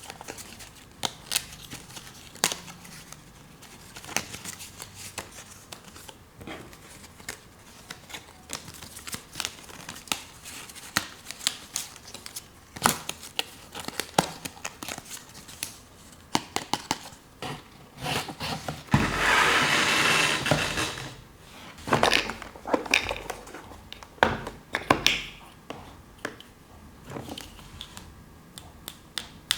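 Small plastic toy pieces and packaging being handled: scattered clicks and taps with crinkling between them, and a loud rustling, tearing burst of about two seconds near two-thirds of the way through.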